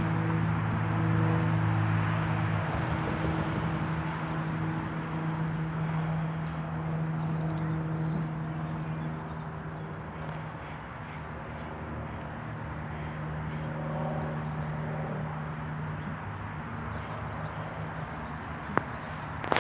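A steady engine hum over broad outdoor background noise. The hum fades away in the last few seconds, and there is one sharp click near the end.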